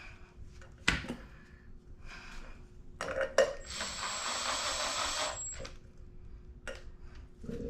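Metal clinks of tools on a mini bike's brake caliper hardware, then a steady rasp of about two seconds as a caliper bolt is tightened down, followed by a few more clicks.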